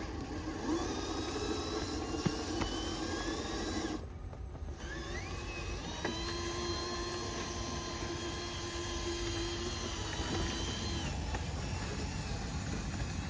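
Small electric motor of a handmade radio-controlled construction truck whining. It breaks off briefly about four seconds in, rises in pitch, then holds a steady whine for several seconds before dying away about eleven seconds in.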